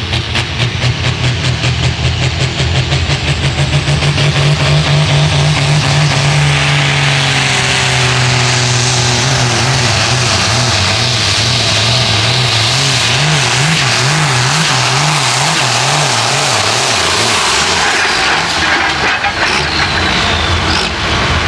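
Modified farm tractor engine at full throttle pulling the sled, building over the first few seconds and then holding steady. About halfway through, the engine pitch drops and then wavers rapidly up and down for several seconds before easing off near the end.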